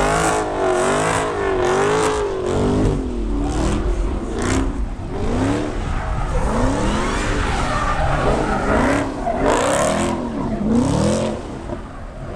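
A car engine revving hard up and down over and over, about once a second, with tyres squealing under it in a burnout.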